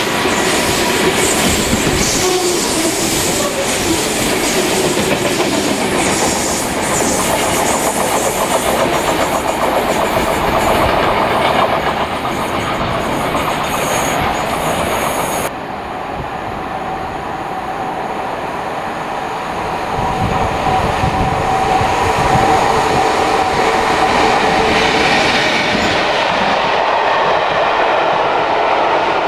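A train running past on the rails, its wheels clicking over the rail joints. About halfway through, the sound changes suddenly to another, duller passing-train sound.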